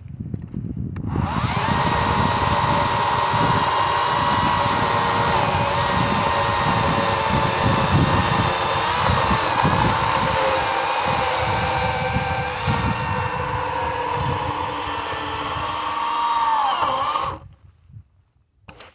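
Kobalt 40V Max cordless electric chainsaw starting about a second in and cutting through a mostly dry cedar log: a steady motor whine over the rasp of the chain chewing wood. Near the end the whine falls in pitch and stops.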